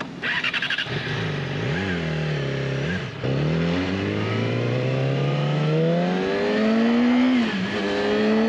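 Motorcycle engine running after a bump start with a dead battery, revving briefly, then climbing steadily in pitch as it accelerates, with a drop in pitch about seven and a half seconds in before it climbs again.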